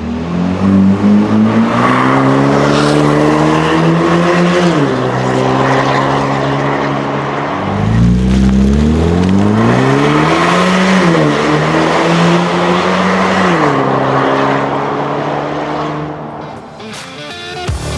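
Ford Maverick 2.0L EcoBoost turbocharged four-cylinder running through an aFe Rebel cat-back exhaust under acceleration. The exhaust note climbs steadily and then drops sharply three times, and it fades near the end.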